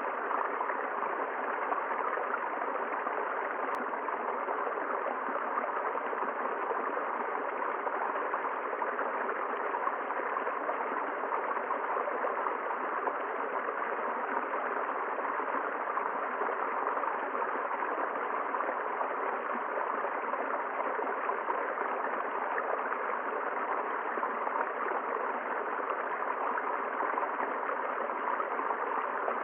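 River water flowing: a steady, unbroken sound of running water.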